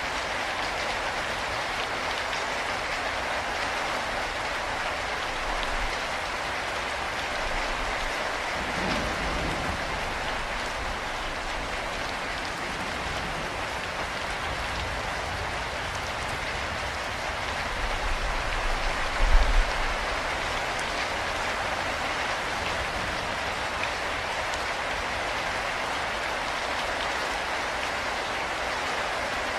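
Steady rain falling, an even hiss, with a brief low rumble about two-thirds of the way through.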